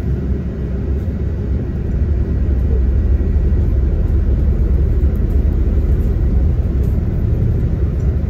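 Diesel engine of a coach bus running, with a steady low rumble heard from inside the passenger cabin; it grows a little louder about two seconds in.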